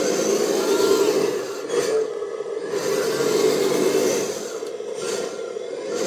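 1/14 Double E Scania G540 8x8 RC dump truck driving in low gear: its electric drive motor and geared drivetrain run steadily, easing off briefly about two seconds in and again near the end.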